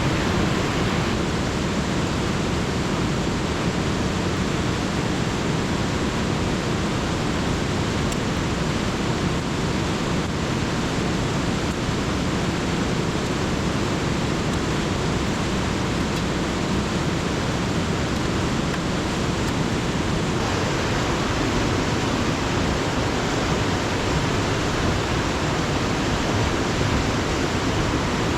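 Alpine river rushing: a steady, even noise of flowing water.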